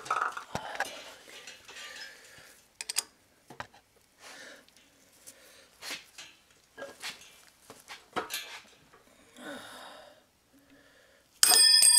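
Hand tools clinking and knocking against engine metal in scattered short clicks while a bolt is worked loose, ending in a loud metallic clang that rings on with several high tones.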